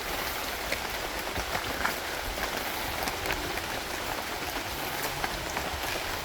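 Rain falling on rainforest foliage: a steady patter of drops with scattered sharper drips.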